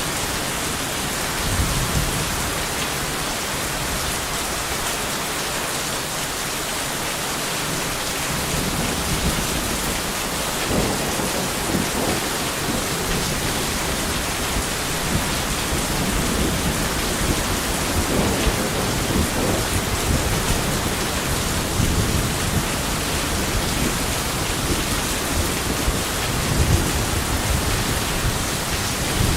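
Steady heavy rain, with thunder rumbling low and rolling in repeated swells from about eight seconds in.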